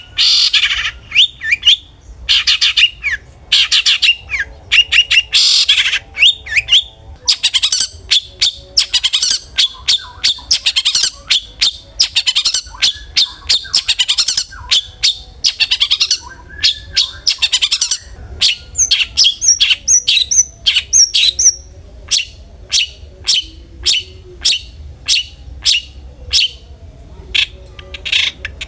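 Long-tailed shrike (cendet) calling in full song: rapid, harsh chattering notes repeated several times a second. About two-thirds through comes a short run of higher whistled notes, then evenly spaced single sharp calls.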